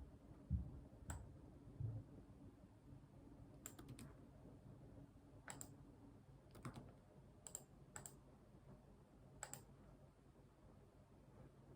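Faint, sparse clicks of a computer keyboard and mouse: about nine single clicks, with a quick run of three about four seconds in. Two soft low thumps come in the first two seconds, over a faint low hum that stops about halfway through.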